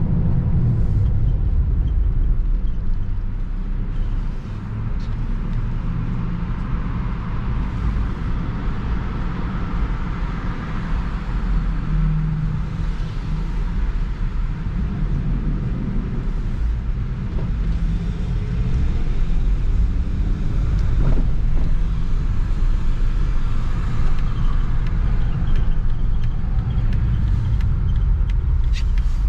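A 2016 Jeep Wrangler Rubicon being driven: a steady rumble of engine and road noise.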